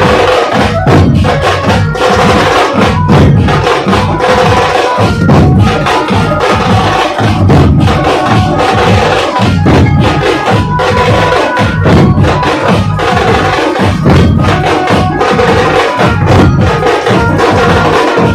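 Dhol pathak drum troupe playing: massed dhol drums beat a fast, driving rhythm, with sharp high strokes over it and a few held pitched notes running through.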